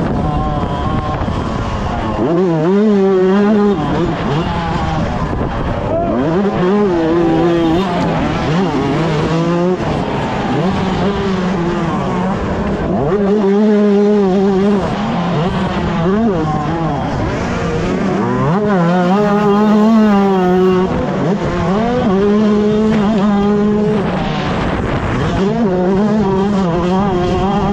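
125cc two-stroke motocross bike engine racing hard, its pitch climbing and dropping again and again as the throttle is opened and shut.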